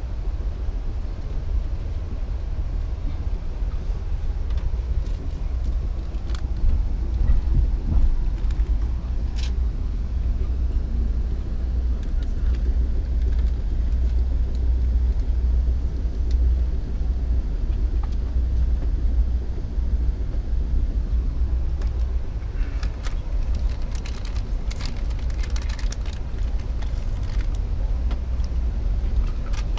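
Steady low rumble of a passenger train running, heard from inside the coach. A cluster of light clicks and rattles comes in the later part.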